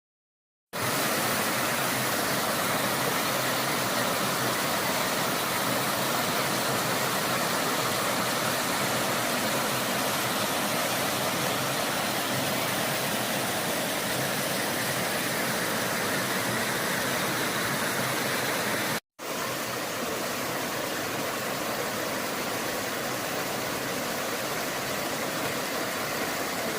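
Waterfall rushing: a steady hiss of falling water with a short break about two-thirds of the way through.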